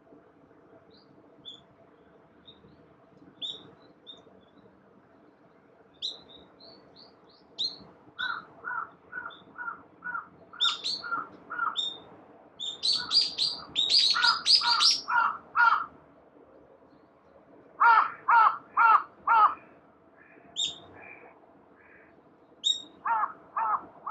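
A crow calling in quick runs of harsh caws, about two to three a second, several times. Small birds chirp with short high notes between and over the runs.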